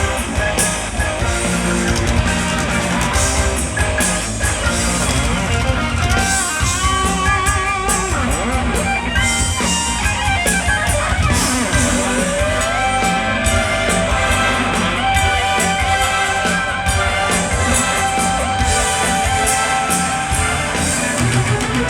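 Rock band playing live through a PA: an instrumental break with a lead electric guitar over drums and bass. The lead holds notes with vibrato and bends up into them.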